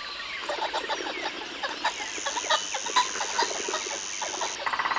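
Pheasants clucking and calling in many short, scattered notes over a steady high tone, with a quick rattling call near the end.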